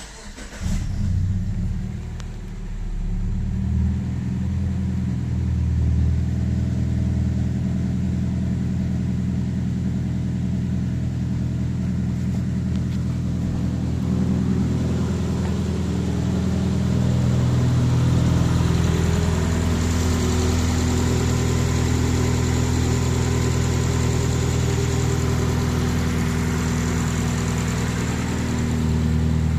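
Subaru EJ253 2.5-litre flat-four engine starting about half a second in, then idling steadily.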